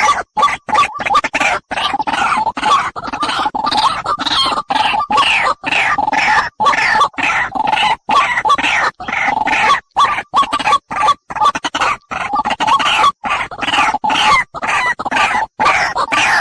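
Animal calls, loud and repeated, broken up by abrupt silent gaps about twice a second.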